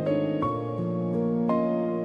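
Slow, gentle piano music, with new notes struck about every second over held chords.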